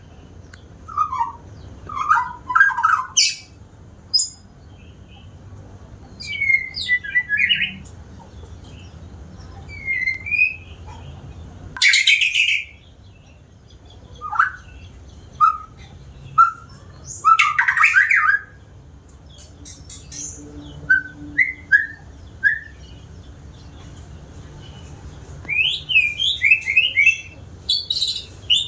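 White-rumped shama (murai batu) singing in short, varied phrases of gliding whistled notes separated by pauses, with a few louder harsh notes mixed in.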